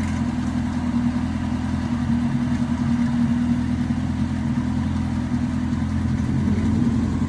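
Off-road 4x4 vehicle engine running steadily at an even, unchanging pitch.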